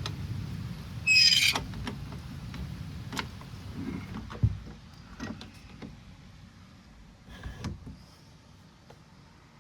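Low rumble of rain dying away. About a second in comes a short, loud squeak, followed by scattered clicks and knocks, one sharper thump among them.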